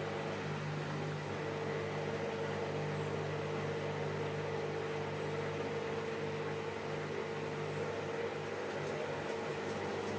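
Bosch front-loading washing machine running with a steady motor hum at an even pitch, its drum turning at a constant speed. Faint, regular ticking comes in near the end.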